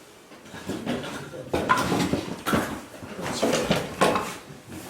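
Kindling knocking and clattering against the metal of a wood stove's firebox as it is laid in, a handful of separate knocks about a second apart.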